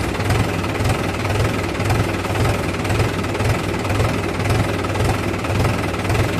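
Heavy diesel engine running steadily, with a low rhythmic pulse about three times a second.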